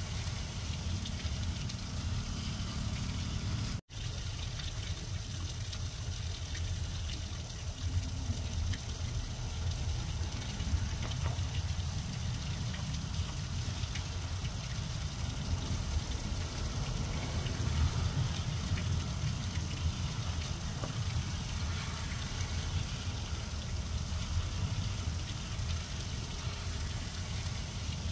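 Steady rain falling on grass and leafy ground cover: a constant hiss over a heavy low rumble. The sound drops out for an instant about four seconds in.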